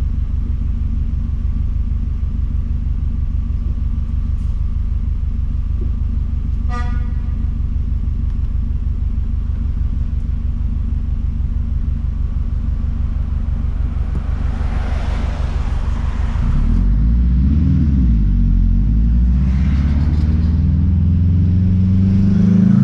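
Straight-piped 2006 Subaru WRX STI's turbocharged flat-four engine giving a steady low drone, then about 16 seconds in it gets louder and the revs climb and fall as the car pulls away and shifts. A car horn toots briefly about 7 seconds in.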